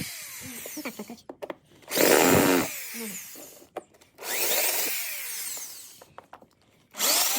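Cordless drill-driver running in short bursts, three times, its motor pitch rising and falling, as it backs out a screw.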